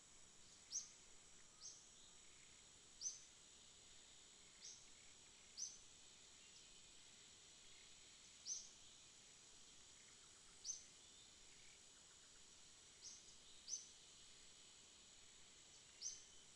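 Faint night ambience: a steady, high insect drone under short, sharp, high chirps that each drop quickly in pitch, about ten of them at irregular gaps of one to three seconds.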